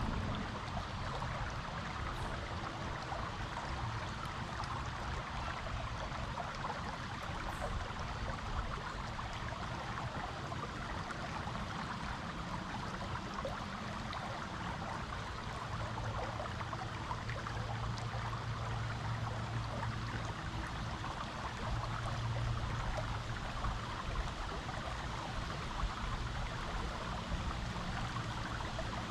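Creek water flowing over rocks and gravel: a steady rushing and trickling.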